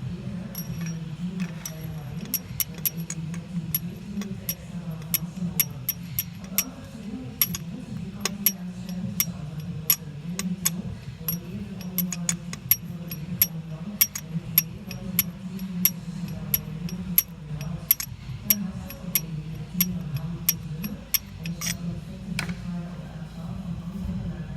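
Honda CR-V 1.6 twin-turbo diesel engine running with a steady low hum, over which comes a sharp, irregular clicking of about two or three ticks a second that stops near the end. It is the sound of a car whose twin-turbo system has failed, logging P0299: boost pressure lower than expected.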